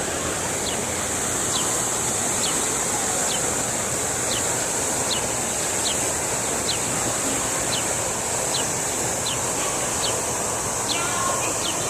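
Outdoor ambience: a steady high hiss, with a short high chirp that repeats a little more than once a second.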